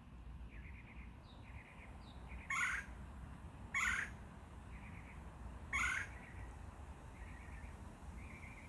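Red-bellied woodpecker giving three loud churring calls, the second about a second after the first and the third about two seconds later. Fainter short trilled chirps repeat about once a second in between.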